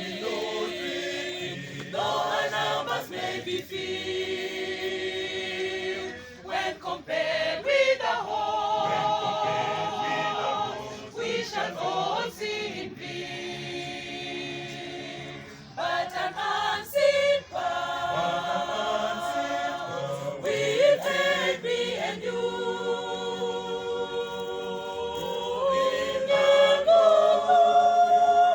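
Choir singing a hymn in harmony: long held chords sung in phrases, with short breaks between them.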